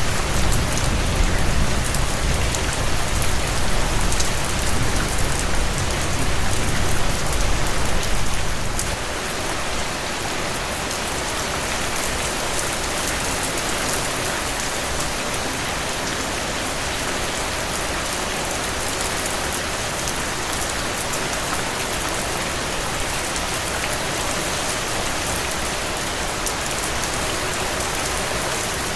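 Steady heavy rain falling on a surface, a dense even hiss of drops. A deep low rumble sits under it and cuts off sharply about eight or nine seconds in.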